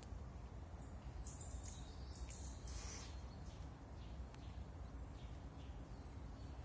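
Small birds chirping in short high calls, most of them between about one and three seconds in, over a low steady outdoor rumble.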